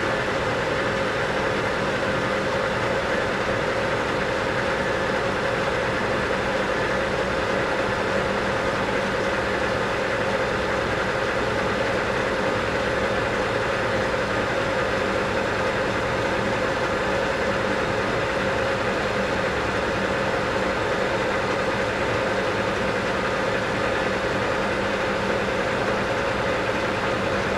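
South Bend 14-1/2 engine lathe running steadily under power, taking a light turning cut along a long shaft. A constant machine hum with a held, steady tone that does not change.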